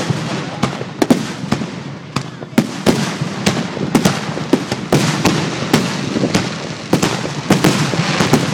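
Aerial fireworks in a finale barrage: shells bursting in quick succession, about three booms a second at irregular spacing, over a continuous crackle.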